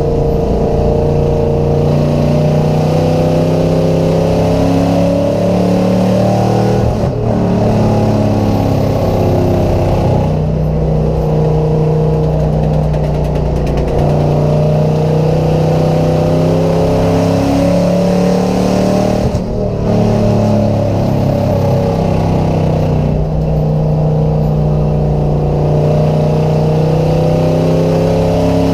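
Race car engine running hard under load while pulling a chained car. Its pitch climbs and falls over and over as it accelerates and lifts off, with short dips in level every several seconds.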